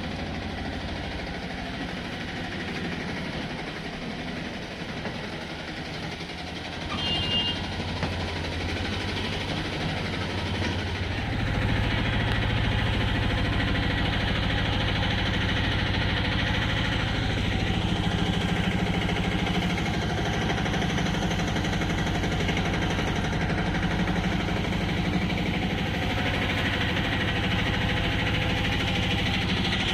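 Passenger train running, a steady rumble and rattle, growing louder about eleven seconds in. A short high beep sounds about seven seconds in.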